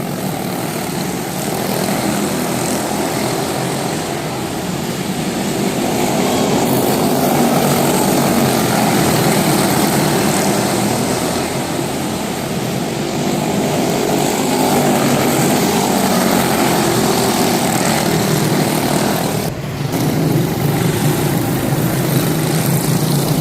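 Several small single-cylinder Briggs & Stratton Animal racing engines running at high revs as a field of race cars laps the track. The noise is steady, with a short dip about twenty seconds in.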